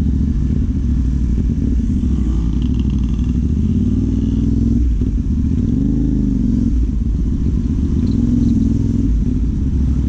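CFMOTO 450 parallel-twin motorcycle engine through a Yoshimura AT2 replica slip-on exhaust, running at low revs in slow traffic. The revs rise and fall a few times, most clearly about five to seven seconds in.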